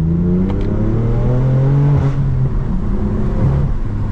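BMW M4 F82's twin-turbo inline-six accelerating, its engine note rising steadily for about two seconds, then falling back and running on at lower revs.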